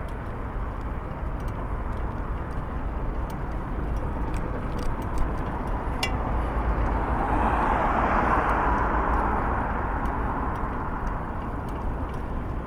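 Road traffic, with one vehicle passing by that rises and fades about seven to ten seconds in.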